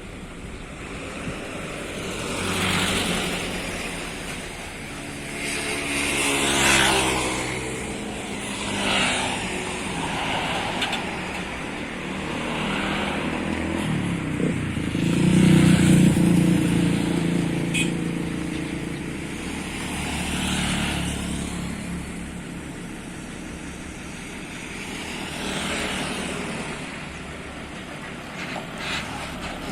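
Coach bus engine revving through a newly fitted aftermarket exhaust, the revs rising and falling in a series of swells, the longest and loudest about halfway through.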